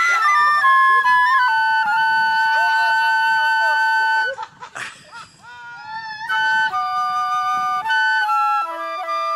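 Music: a flute playing a melody of held notes, with a short break about halfway through.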